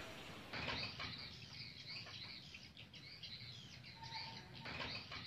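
Faint birds chirping and twittering: many quick, high, overlapping chirps.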